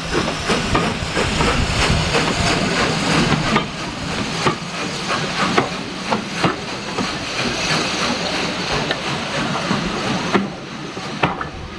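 Steam locomotive working along the line: a hiss of steam with sharp exhaust beats, about two a second at first, then less regular. The sound drops away about ten seconds in.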